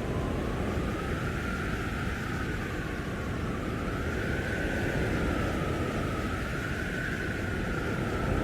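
Blizzard wind rushing steadily, with a howling whistle that slowly rises and falls in pitch.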